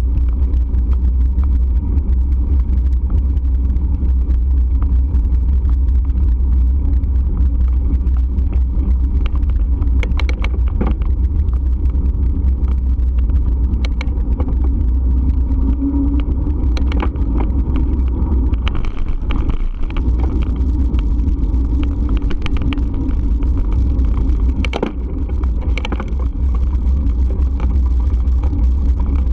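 Steady low rumble of riding a bike, wind and road noise on a moving camera's microphone, with a few sharp clicks scattered through.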